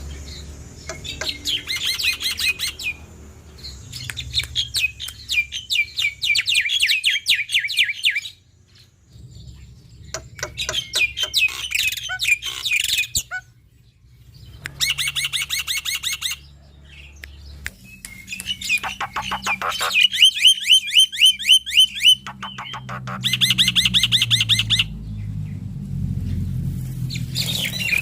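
Male black-winged starling (jalak putih) singing a loud, chattering song: phrases of fast repeated notes, each lasting a second or a few seconds, broken by short pauses.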